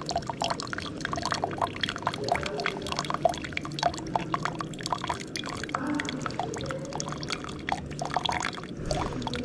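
Keurig K-Supreme Plus coffee maker running a water-only rinse brew: hot water pouring and splashing into a cup over a low steady hum from the machine.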